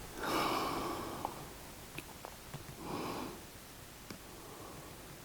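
Two breathy exhalations close to the microphone: the first lasts about a second and the second, shorter one comes about three seconds in. A few faint ticks fall between them.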